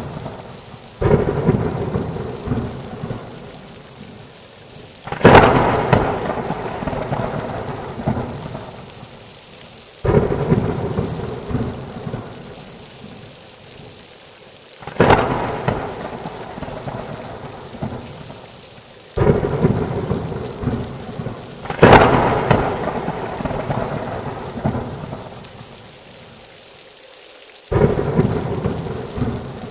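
Thunderstorm: repeated thunderclaps, about seven, each starting suddenly and rumbling away over a few seconds, over steady rain. The loudest claps come about five seconds in and a little past the middle.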